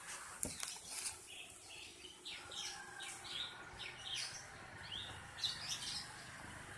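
Small birds chirping outdoors, many short calls overlapping throughout, with one sharp click about half a second in.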